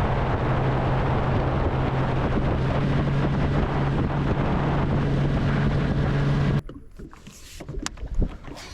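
Bass boat running under engine power, a steady low engine hum under heavy wind and water noise; it cuts off abruptly about six and a half seconds in, leaving a few light knocks.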